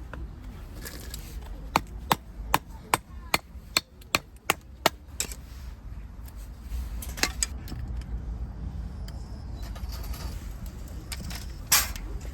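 Wood being chopped: a run of about nine sharp knocks at an even pace of roughly two or three a second, then a few lighter taps and a single louder crack near the end.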